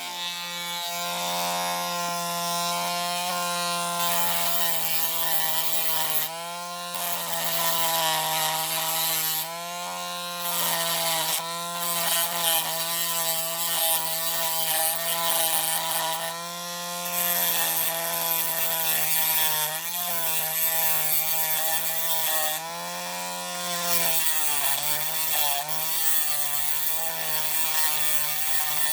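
Small handheld rotary tool with a little grinding wheel running and grinding metal on a die-cast toy truck. Its steady high whine sags in pitch several times as the wheel is pressed into the metal, and it stops near the end.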